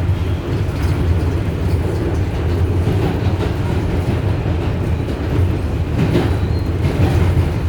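An R188 subway car running at speed, heard from inside the car: a steady low rumble of wheels and motors, with now and then a click from the wheels passing over rail joints.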